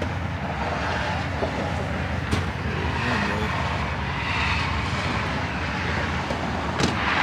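Car engine running with a steady low rumble, with a couple of brief clicks.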